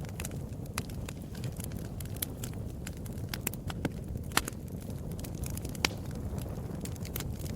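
Wood fire burning with a low steady rumble and irregular sharp crackles and pops.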